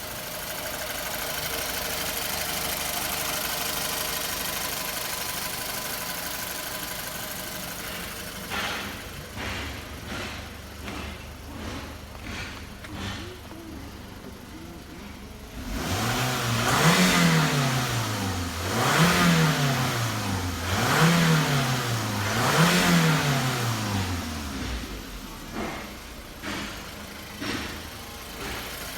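Toyota Isis's 1AZ 2.0-litre four-cylinder engine running steadily, then irregular knocks, then revved four times in a row, rising and falling about every two seconds, during a Wako's RECS carbon-cleaning treatment.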